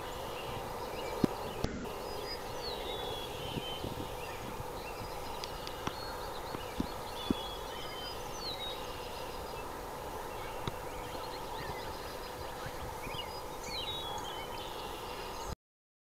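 Birds chirping in short, high calls over a steady outdoor background with a low hum and a few faint clicks; the sound stops abruptly near the end.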